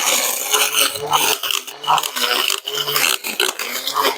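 Cordless 21-volt battery brush cutter cutting grass, its motor hum coming and going in short spurts, with scraping and rattling of the cutting head against grass and ground.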